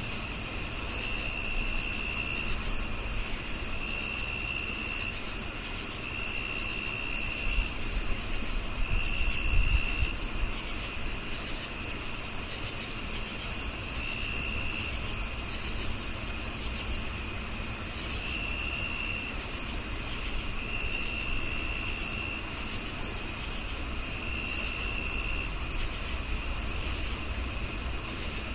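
Several crickets singing at once: a steady high trill, an even chirping at about two to three chirps a second, and a lower trill that comes in one-second bursts every couple of seconds. A low rumble swells briefly about eight to ten seconds in.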